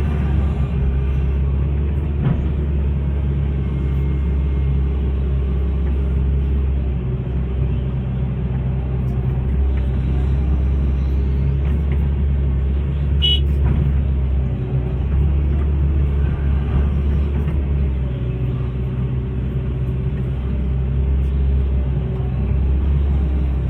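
Hitachi hydraulic excavator's diesel engine running steadily while digging, a deep drone that eases and picks up slightly now and then. A brief high-pitched squeal about 13 seconds in.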